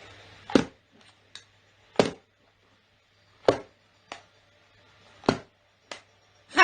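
Sharp knocks or taps repeating about every second and a half, with fainter clicks between them.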